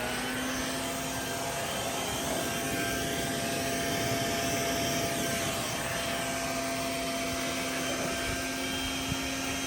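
Electric blower motor running steadily, pumping air into an inflatable pool; it has just spun up, rising in pitch before settling.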